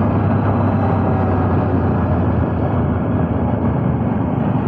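Motorcycle engine running at a steady speed while climbing a hill road, with wind and road noise on the rider's camera.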